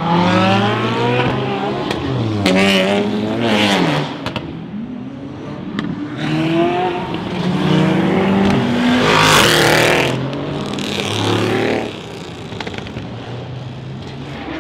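Several supercars drive past one after another, engines revving up and dropping back again and again. The loudest pass comes about nine seconds in, and it settles to a quieter, steadier engine sound after about twelve seconds.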